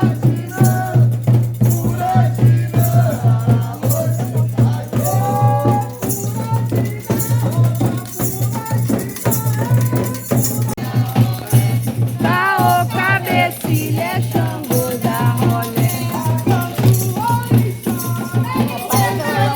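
Candomblé ceremonial music: rattles shaken in a steady rhythm, with several voices singing and calling over it.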